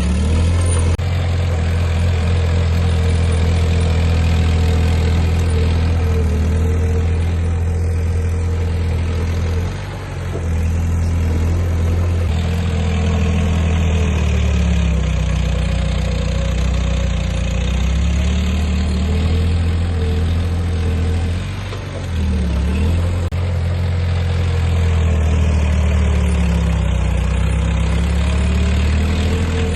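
Heavy diesel engine of earthmoving machinery running with a loud, steady low hum. Its pitch swells and falls back several times as it works, with two brief dips, about a third and two-thirds of the way through.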